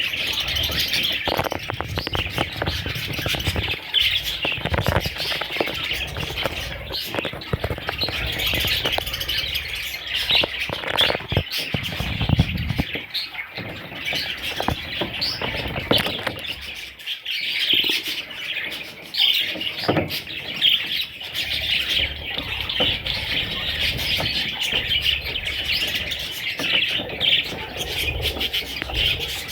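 Budgerigars chirping continuously, many calls overlapping, with some rustling and fluttering among them.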